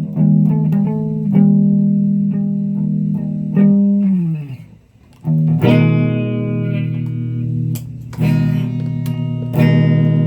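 Guitar playing: a run of quick plucked notes, a note sliding down in pitch about four seconds in, then ringing chords struck about three times.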